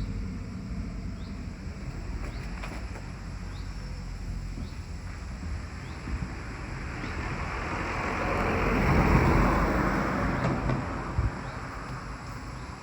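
A road vehicle driving past, its tyre and engine noise swelling to a peak about nine seconds in and then fading away, over a low steady traffic rumble.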